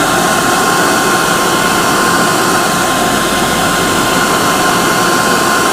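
Hair dryer running steadily, a constant blowing noise with a steady whine from its motor fan.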